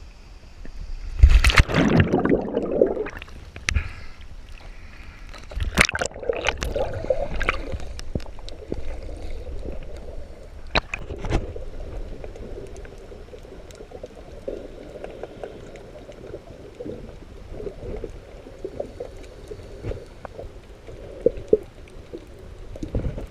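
A loud splash of a diver entering the sea about a second in, followed by water gurgling and sloshing with a few sharp knocks.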